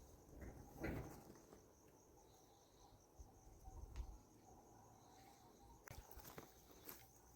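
Near silence: a faint, steady high insect chirring, with a few soft knocks and taps.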